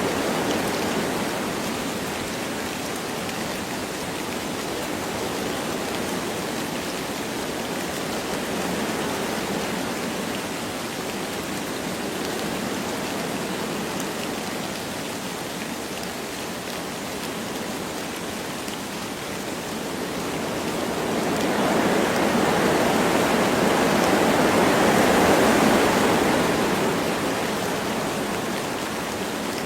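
Wind blowing through forest trees with light rain, a steady rushing hiss that swells into a stronger gust about two-thirds of the way through, then eases.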